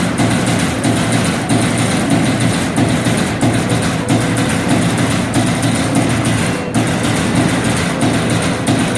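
CNC turret punch press running, its repeated punching blending into a steady, dense mechanical din.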